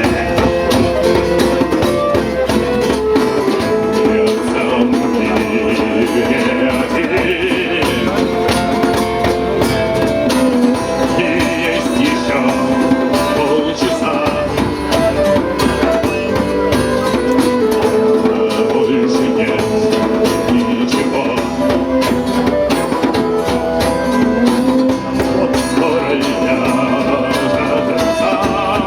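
Live band playing a song: singing over instruments with a steady percussion beat.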